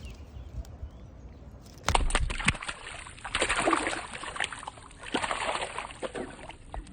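Water splashing and sloshing in irregular surges, beginning suddenly about two seconds in, with sharp knocks among them.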